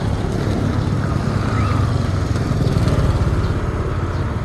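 A small engine running steadily with a low, fast-pulsing rumble.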